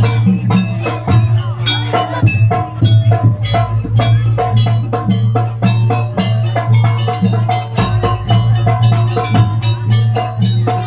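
Jaranan ensemble music played live: fast, driving drum strokes and tuned metal percussion in a dense repeating rhythm over a steady low drone.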